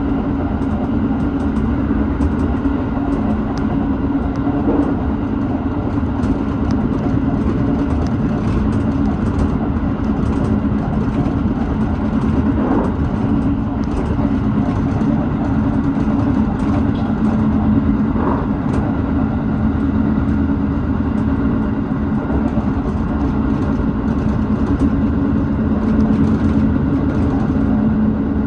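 Tobu 6050 series electric train running along the line, with a steady drone of motors and wheels on the rails heard from inside the front of the car.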